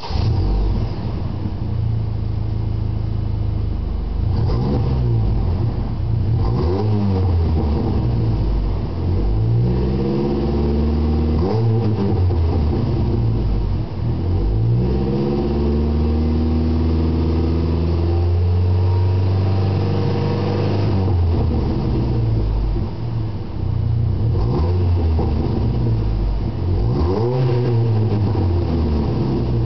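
2004 Chevy Colorado's inline-four running through a Gibson Extreme Dual aftermarket exhaust, revved from idle about seven times: quick blips and a couple of longer pulls held high before dropping back.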